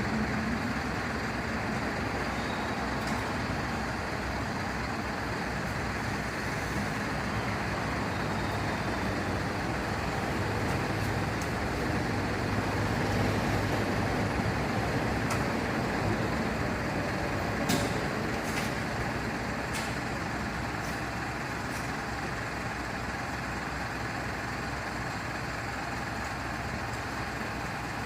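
A heavy vehicle's engine running steadily, with a couple of sharp clicks a little past the middle.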